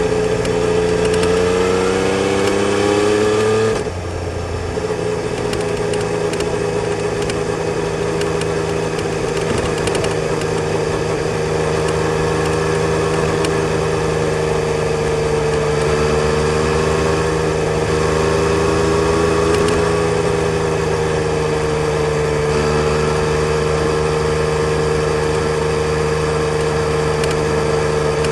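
Yamaha Tracer 900 GT's three-cylinder engine under way. The revs climb for about four seconds, drop suddenly, then hold fairly steady with small rises and falls.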